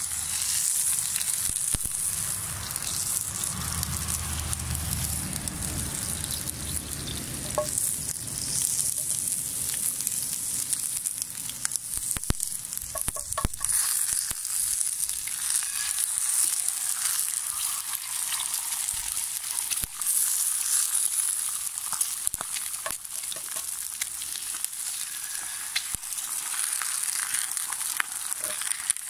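Oil sizzling in a cast-iron skillet over a wood fire, with slices of sausage, tomato, zucchini and potato frying and eggs added to fry partway through. A steady high hiss with scattered sharp pops, several together about halfway through.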